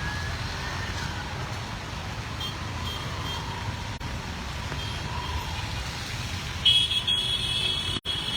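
Steady low rumble of street traffic, with a shrill tone sounding for about two seconds near the end.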